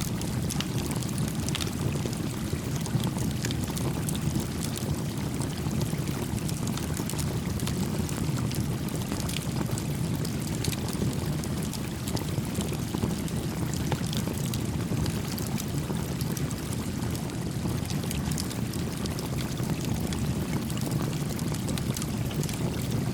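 A stream running steadily, with a small campfire crackling in scattered faint pops and snaps over it.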